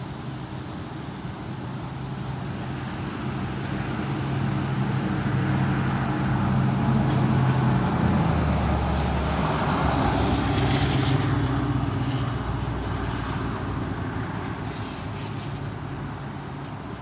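A motor vehicle drives past: its engine hum and tyre noise grow louder over several seconds, peak about halfway through, then fade away.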